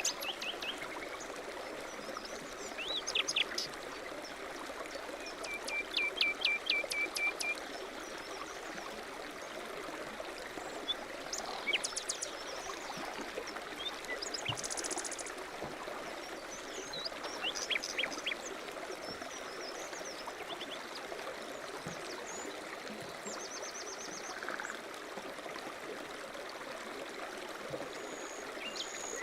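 A mountain stream running steadily, with small birds calling over it: several short series of quick chirps and trills, the clearest a run of about eight even notes around six to seven seconds in, and a brief high buzzy trill near the middle.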